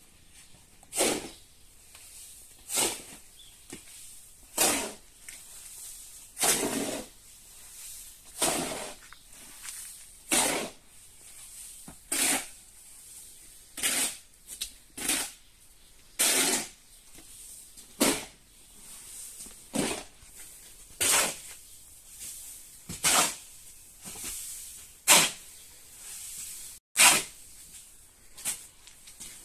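Repeated scraping strokes of a hand tool, one roughly every two seconds, each a short rasping swish.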